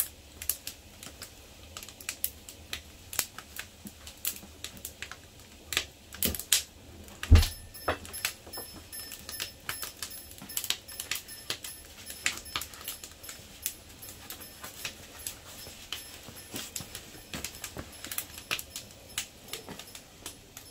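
Irregular sharp clicks and light knocks, several a second, with one heavier thump about seven seconds in.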